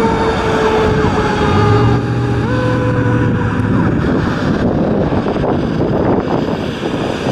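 Emergency vehicle siren holding one slowly falling tone that fades out about four seconds in, leaving the rumble of engines and traffic.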